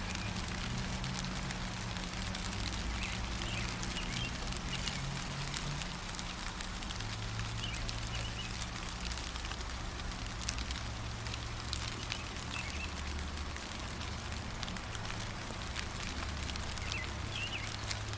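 Steady rain falling, with a hiss of many small drop ticks over a low rumble, and short bird chirps breaking in now and then, about five times.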